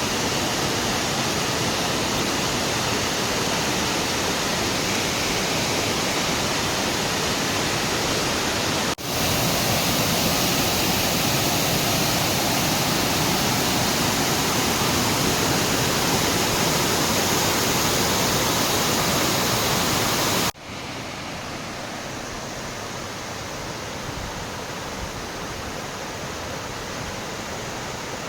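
Waterfall: a steady rush of falling water. It cuts abruptly to a louder stretch about nine seconds in, then to a quieter, less hissy one about twenty-one seconds in.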